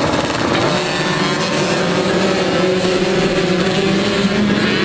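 Several motocross dirt bike engines running and revving at once, 65cc bikes out on the track, their pitches overlapping and shifting.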